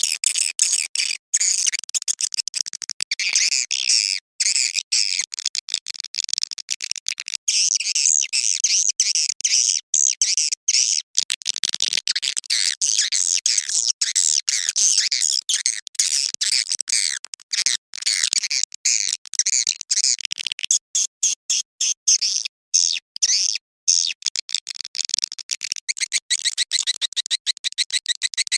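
Swiftlet mating calls, as used to lure swiftlets to a nesting house: dense, high-pitched twittering made of rapid chirps with brief gaps between bursts.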